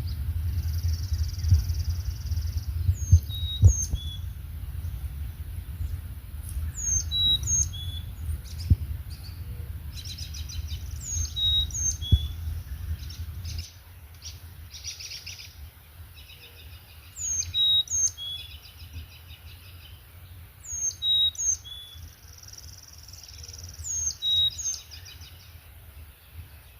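Songbirds singing, one repeating a short high phrase (a quick falling sweep then two brief whistled notes) every few seconds, with trills from others in between. A low rumble sits under the first half and drops away about halfway through.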